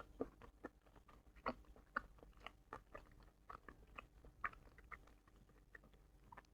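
Close-miked chewing: faint, irregular wet mouth clicks and smacks, a few each second.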